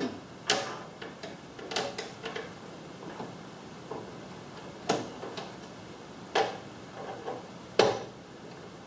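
Irregular sharp clicks and clacks of hand tools and metal and plastic parts being handled while the garage door opener is taken apart, about half a dozen louder knocks a second or more apart.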